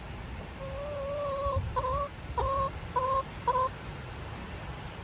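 A hen calling: one long drawn-out note, then four short clucks about half a second apart, over a low rumble of wind or handling noise.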